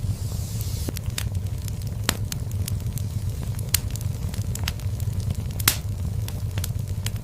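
Fire in a fireplace crackling: irregular sharp pops and snaps over a steady low rumble of burning. One louder snap comes toward the end.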